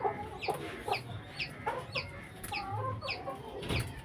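Chickens clucking, with a run of short, high, falling calls about two or three a second. A single sharp knock comes near the end.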